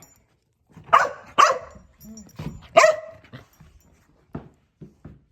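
Dog barking: three short, loud barks, about a second in, half a second later and again near three seconds, with a few fainter sounds after.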